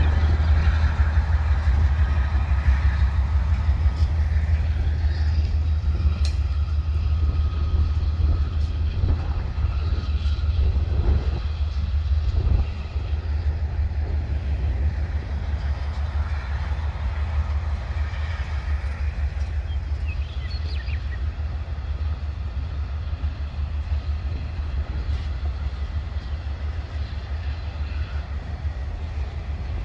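Freight train cars, centerbeam lumber flatcars and then autoracks, rolling past on the rails: a steady low rumble of wheels on track with scattered clicks and clanks. The level drops slightly about twelve seconds in.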